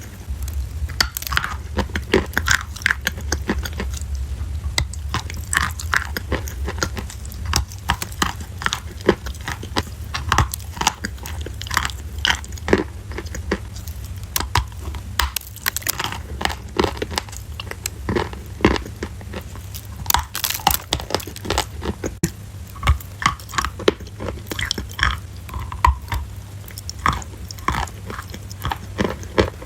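Crunchy food being bitten and chewed close to the microphone: a dense, irregular run of sharp crunches and crackles, over a steady low hum.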